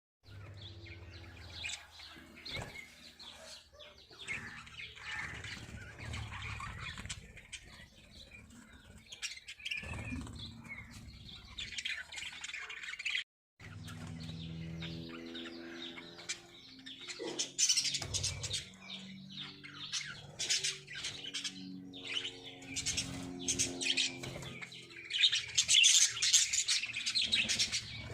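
Lovebirds chirping and twittering in rapid, overlapping high calls, with a brief break about halfway and louder bursts of chirping near the end.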